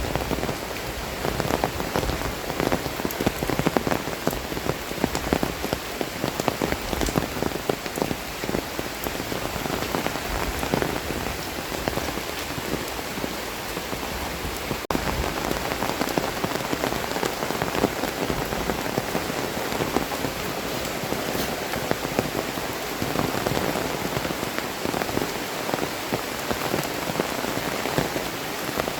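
Heavy tropical rain falling steadily, with many close drop hits on surfaces making up a dense, even rush.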